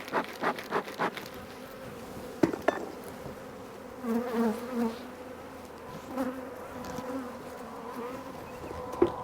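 Honeybees buzzing steadily around an opened hive, the workers flying back in after being shaken off the frames. A quick run of short, even puffs in the first second and a few sharp knocks later on.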